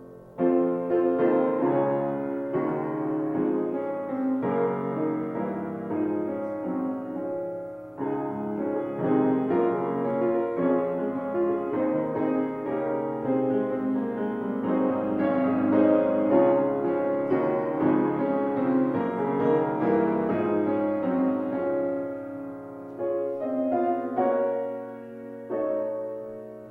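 Piano playing chords, coming in loudly about half a second in after a quiet lead-in.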